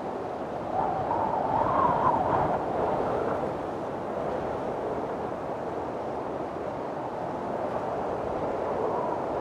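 Strong wind blowing in a windstorm, a steady rushing with a louder, whistling gust about a second in that eases off by three seconds, and another building near the end.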